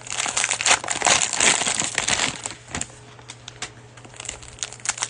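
Plastic cello-pack wrapper of trading cards crinkling as the pack is opened and handled. The crinkling is thick for the first two and a half seconds, thins to scattered clicks, and picks up again near the end.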